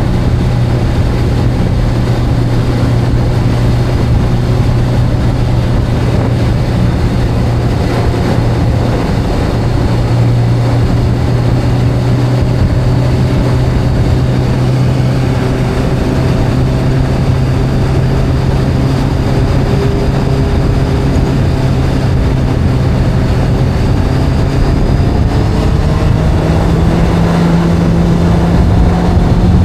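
Sport motorcycle engine running at a steady pitch while cruising, then rising in pitch near the end as the bike speeds up.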